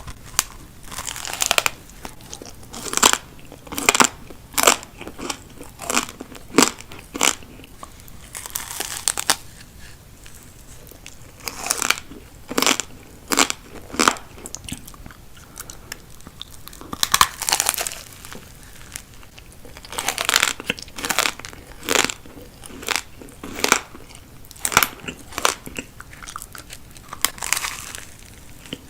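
Close-miked eating: crisp bites and crunchy chewing, sharp crunches coming irregularly, often about a second apart, with a few short lulls.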